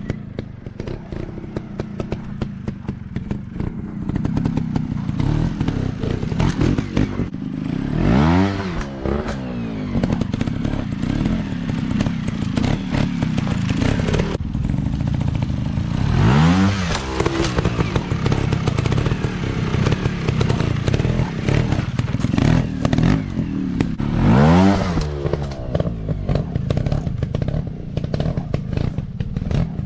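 Dirt bike engine running steadily, revving up sharply and dropping back three times, about eight seconds apart.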